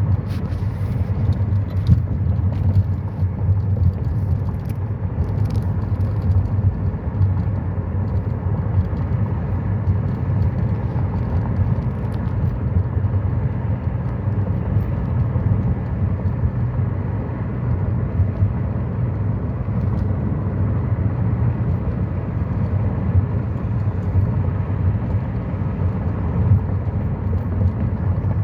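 Steady low rumble of a car running, with no clear rise or fall.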